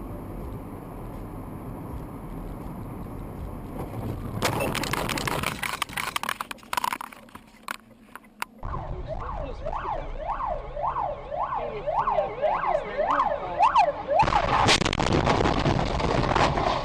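Dashcam audio: steady road noise, then a stretch of clattering knocks, then an emergency-vehicle siren sweeping rapidly up and down, about twice a second, for about five seconds, before louder road noise returns.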